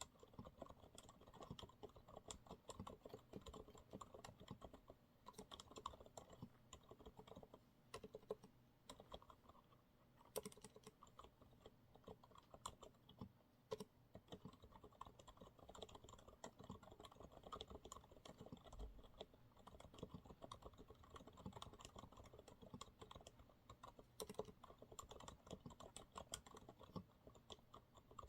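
Steady, fast typing on a Monsgeek MG108W mechanical keyboard with TTC silent brown switches: soft, muted keystrokes in a continuous run, with a few sharper strokes now and then.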